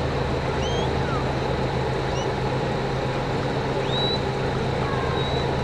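A vehicle engine running steadily with a constant low hum, while birds chirp briefly and repeatedly over it.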